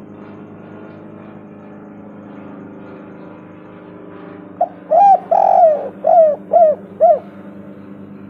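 Spotted dove (tekukur) cooing: a quick run of about six coos in the second half, one of them a longer rolling note, over a steady low droning hum.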